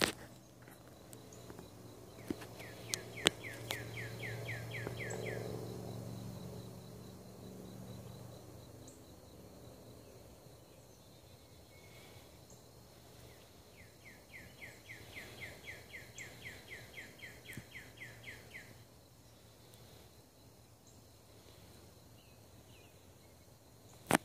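A songbird singing two phrases of quickly repeated downslurred whistles, about five notes a second, each phrase lasting three to five seconds. A low steady hum sits underneath in the first half, and there are a few sharp clicks.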